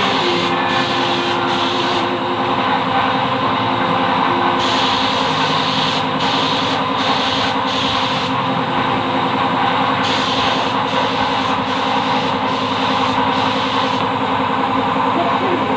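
A machine running steadily, a continuous mechanical hum with hiss, unchanging throughout.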